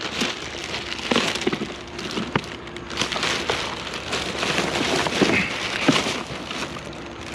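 Irregular clicks, knocks and crackling rustle over a steady noisy background.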